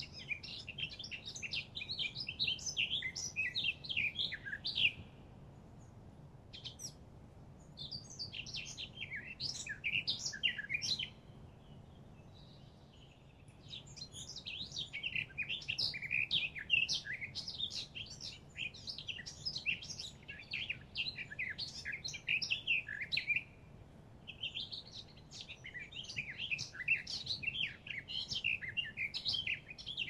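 A songbird singing long phrases of fast, high twittering notes, four phrases with short pauses between them.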